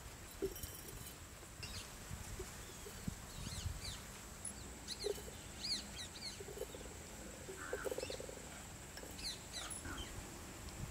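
Faint bird chirps outdoors: short high calls scattered every second or so, over a thin steady high tone, with a few soft knocks and rustles from ground powder being handled and dropped into a glass jar.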